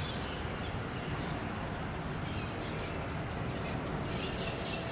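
Outdoor ambience with a steady, high-pitched insect trill, like crickets, held throughout over a low background hiss.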